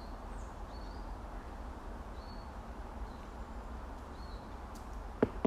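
Faint short, high bird chirps, four of them a second or more apart, over a low outdoor rumble, with one sharp click near the end.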